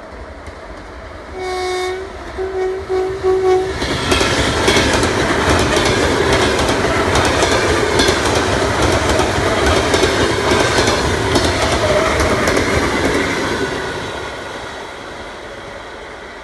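ED9M electric multiple unit sounding its horn in greeting: one longer blast, then several quick short toots. It then passes at speed, its wheels clicking over the rail joints, and fades away.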